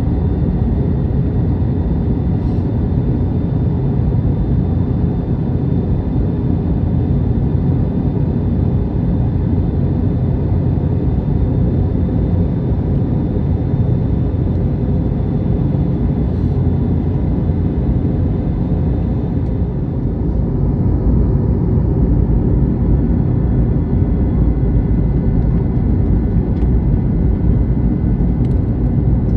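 Steady cabin rumble of an Airbus A321neo, heard from inside the passenger cabin, with faint steady whine tones over the low roar.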